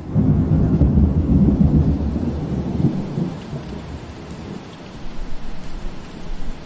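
A low roll of thunder over steady rain, loudest in the first three seconds and fading away through the rest.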